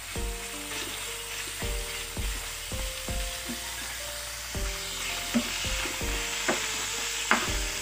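Raw chicken pieces sizzling as they fry in a little oil in a frying pan, stirred with a wooden spoon, with a few sharp clicks of the spoon against the pan in the second half.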